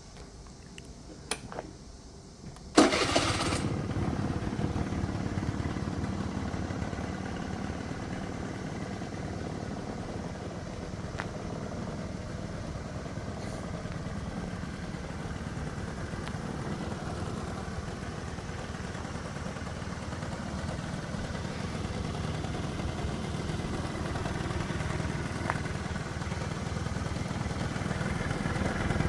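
Honda Julio 50cc two-stroke scooter engine starting: a few clicks, then it fires up about three seconds in and settles into a steady idle.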